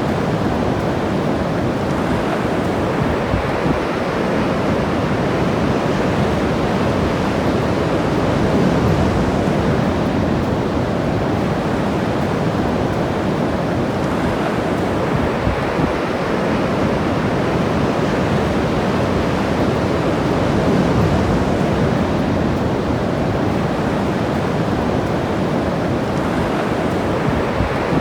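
Ocean surf washing on the shore, a steady rush that swells twice as waves break.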